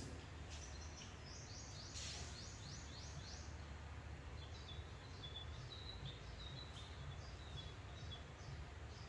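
Small birds chirping over a steady low hum: a quick run of short, high, falling notes in the first few seconds, then spaced, slightly lower chirps. A single soft click or rustle about two seconds in.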